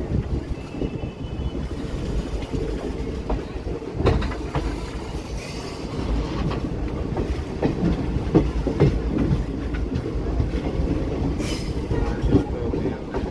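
Sabroom–Sealdah Kanchanjungha Express passenger coach running at speed, heard from its open doorway. There is a steady rumble of wheels on the track with irregular clicks and knocks as the wheels pass over rail joints.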